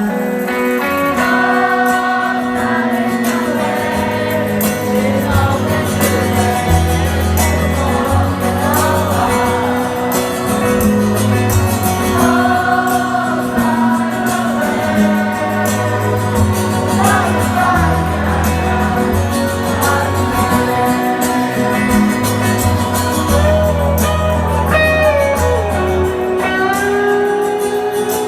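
Live rock band playing with singing over guitars, bass and drums.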